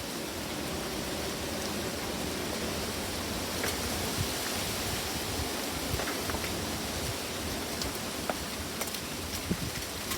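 Strong wind of a dust storm rushing steadily over the microphone, with a few light ticks scattered through it.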